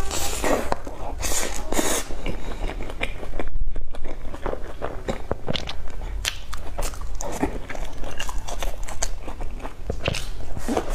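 Biting into and chewing cream puffs, a run of crunching and wet mouth clicks.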